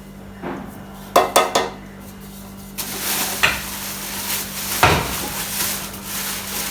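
Kitchen utensils knocking against a bowl while flour is measured out by the cupful: three quick clinks about a second in, then a longer scraping rustle with a few more knocks.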